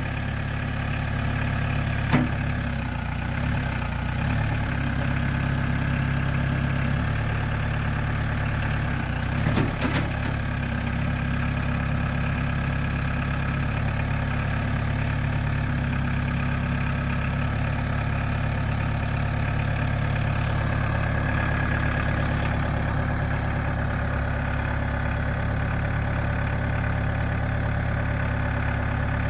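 2003 New Holland TC40D compact tractor's diesel engine idling steadily, with a couple of short knocks about two seconds in and again near ten seconds.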